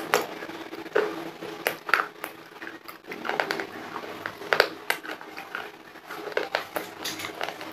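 Crunching and chewing of dry homemade clay in the mouth, close to a lapel microphone: irregular sharp crunches, a few a second, with the sharpest about two and four and a half seconds in.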